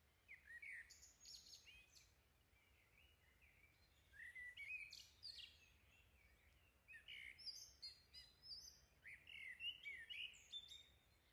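Faint bird chirps and twitters, several short runs of quick calls with gaps between.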